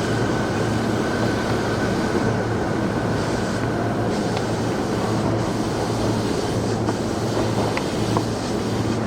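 Running sound inside an E233 series 8000 electric train car moving along the line: a steady rumble of wheels on rail and the running gear, with a faint high tone fading away early on and a few light clicks near the end.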